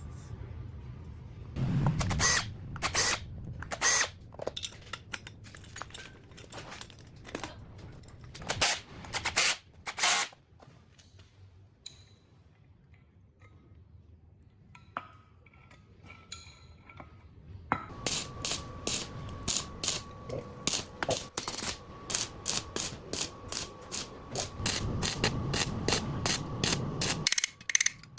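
Sharp clicks and knocks from hand tools at work, scattered at first. Past the middle they come as a fast, even run of clicks over a faint steady whine, like a ratcheting tool or small powered tool.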